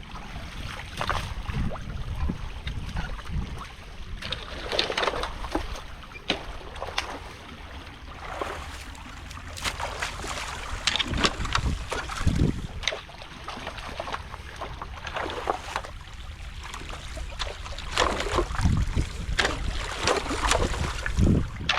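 Water splashing and sloshing in a creek as a rock-filled beaver dam is pulled apart by hand, with stones knocking against each other at irregular moments. A low wind rumble on the microphone runs underneath.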